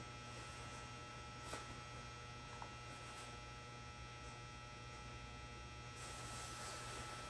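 Faint steady low electrical hum, like mains hum, with a couple of faint ticks.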